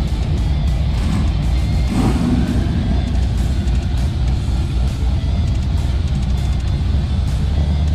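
Background music playing over a twin-turbo Camaro engine running with a steady low rumble.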